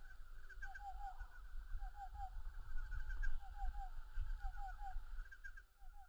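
A bird calling in quick runs of three short notes, a run about every second, over a low rumble.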